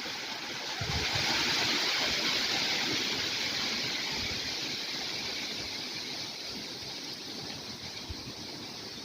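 Summer wind rustling the leaves of trees: a steady hiss that swells about a second in and then slowly dies away.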